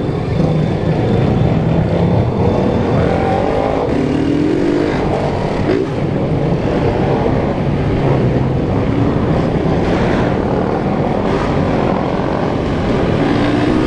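Motorcycle engines running steadily under a constant rush of riding noise, amid a convoy of many motorcycles. Engine pitch rises briefly about four seconds in and again near the end.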